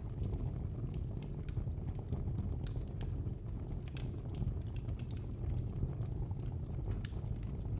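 Fire burning in a fireplace: a steady low rumble of flame with frequent irregular sharp crackles and pops, several each second.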